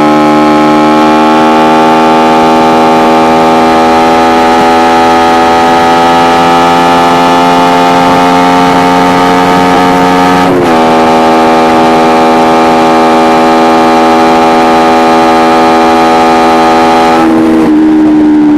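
Kawasaki Ninja 250R parallel-twin engine with an Akrapovic exhaust, running under load while riding, its revs climbing slowly. About ten and a half seconds in the pitch drops sharply, as at a gear change, then holds, and it steps down again and falls away near the end.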